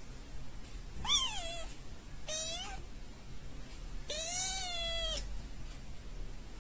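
Domestic cat meowing three times: a short call falling in pitch, a brief second call, then a longer drawn-out meow.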